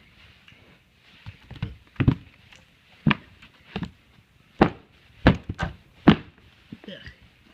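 A package being worked at by hand to get it open: a string of about ten irregular thunks and knocks.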